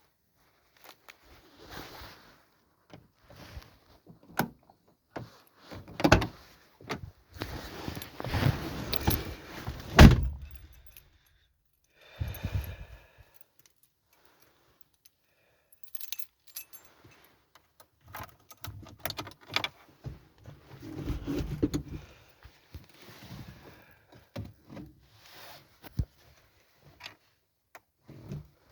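Car keys jangling among scattered clicks and handling noises, with a loud thump about ten seconds in.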